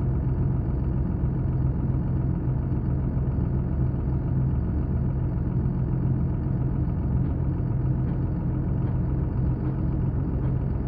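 An engine idling steadily, a constant low drone that does not change.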